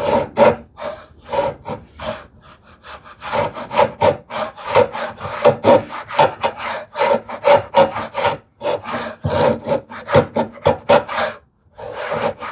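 Veritas router plane pushed back and forth across a tenon cheek in quick, rhythmic scraping strokes of about two to three a second, pausing briefly near the end. It is taking light passes to trim a fat tenon down toward its final thickness.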